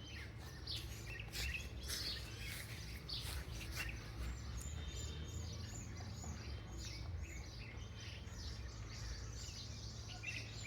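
Birds chirping: many short, high calls overlapping, with a quick run of short falling notes about five seconds in, over a steady low hum.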